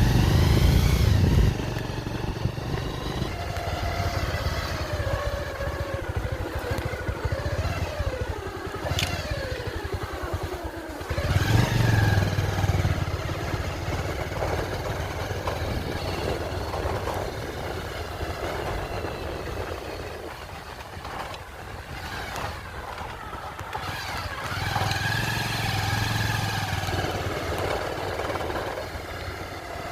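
An engine running on the move, its pitch rising and falling as it revs up and eases off, loudest at the start, about a third of the way in and again near the end.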